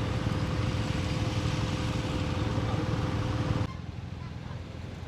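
Motorcycle engine running steadily under a wide noisy rush, cutting off abruptly to a quieter background hum about three and a half seconds in.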